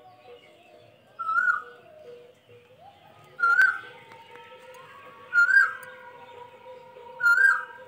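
A bird's short whistled call, rising in pitch, repeated about every two seconds, four times, over a faint steady tone.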